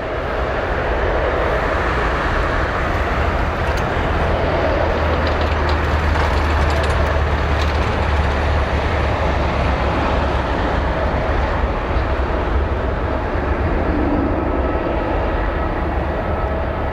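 Jet airliner noise: a loud, steady rush with a deep rumble underneath, easing slightly in the second half.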